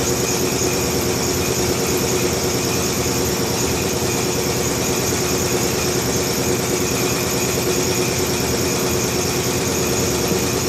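Steady, even running noise of a motor or machine, unchanging throughout.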